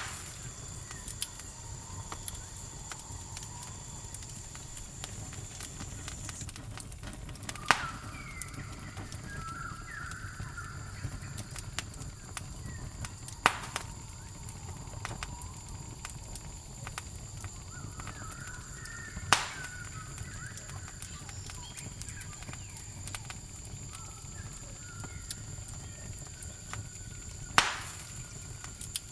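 Campfire crackling with many small ticks and four loud sharp pops spread through, over a low rush. A steady high insect trill runs throughout, with short chirping calls.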